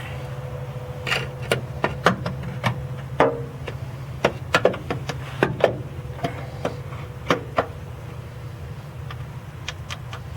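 Irregular sharp knocks and clicks, about fifteen over several seconds, as the starter motor is being fitted back onto a Ford 7.3L PowerStroke diesel engine. A steady low hum runs underneath.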